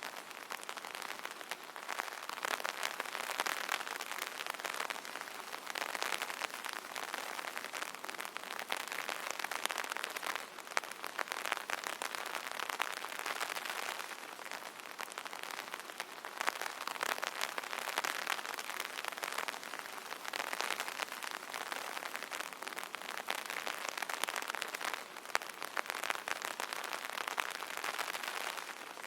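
Rain pattering steadily on an umbrella canopy, a dense hiss of many drop hits with sharper single drops throughout, swelling and easing every few seconds.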